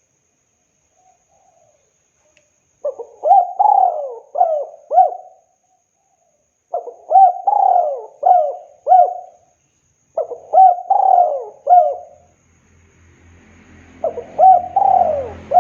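Spotted dove cooing in repeated phrases, each a run of four or five rolling coos. Three full phrases come a couple of seconds apart, and a fourth begins near the end.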